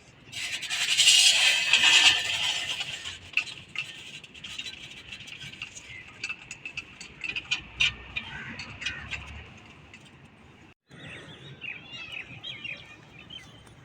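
Small birds chirping: a loud, dense burst of noise and chatter in the first two seconds, then scattered short chirps.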